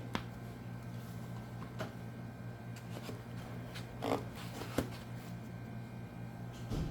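Packaging and parts being handled during an unboxing: light rustling with a few scattered taps and knocks, the loudest a pair about four and five seconds in, over a steady low hum.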